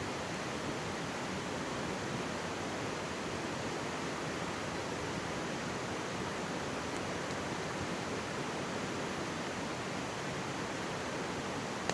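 Steady rushing of a mountain stream running close by, an even, unbroken wash of water noise.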